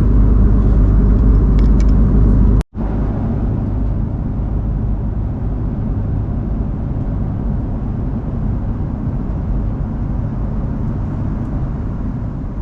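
Steady low rumble of a jet airliner's cabin in flight. It drops out for a split second about a quarter of the way in, then goes on slightly quieter.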